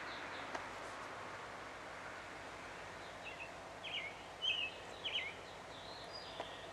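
A bird calling: a quick run of short chirps and whistled notes about halfway through, over a steady background hiss.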